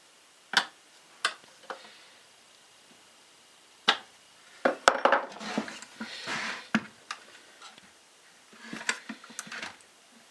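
Clicks and clatter of hand tools and hard plastic parts as the recoil starter housing of a Husqvarna 435 chainsaw is fastened back on. A few separate sharp clicks come first, then a busier stretch of clattering and rasping in the middle and more clicks near the end.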